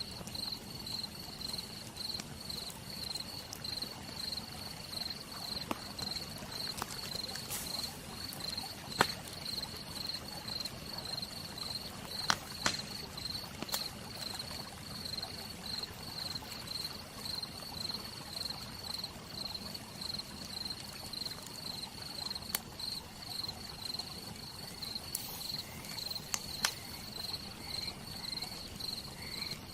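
Campfire crackling, with a few sharp pops scattered through, under a steady, rhythmic chirping of crickets. Several short rising calls come in near the end.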